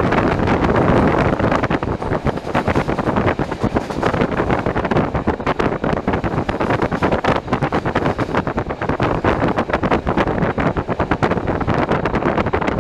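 Beovoz commuter train running at speed, heard from inside the carriage: a steady rumble and rush from the wheels on the track, with constant quick rattling and clicking.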